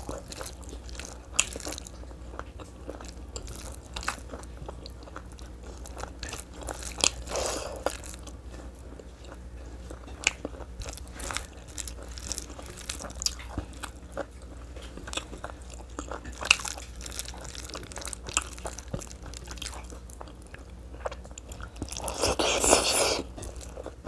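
Close-up chewing of tough, fire-dried meat (sukuti), with many small crunches and clicks; a louder stretch of crunching comes near the end.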